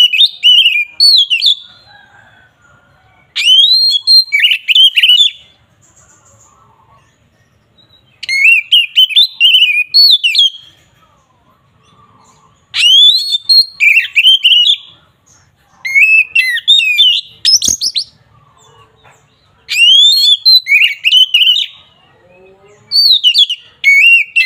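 Oriental magpie-robin (kacer) singing in its loud, full-voiced 'ngeplong' style: loud whistled song phrases about two seconds long, repeated every three to four seconds with short pauses between.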